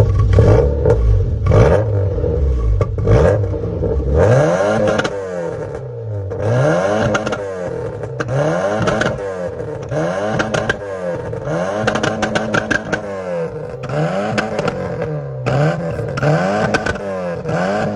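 Straight-piped 2-litre engine of a Mk1 Volkswagen Golf running with a heavy low drone, then revved in repeated blips, the revs rising and falling about every second and a half.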